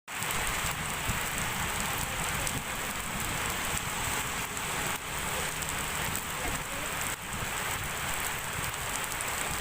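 Heavy rain falling steadily, a dense even downpour.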